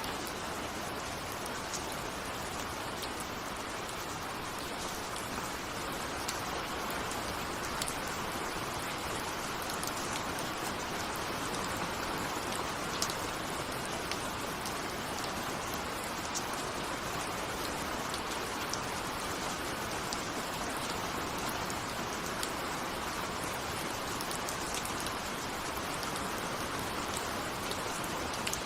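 Steady rain falling, with a continuous hiss and the small ticks of single drops scattered through it. The rain is heard on a window.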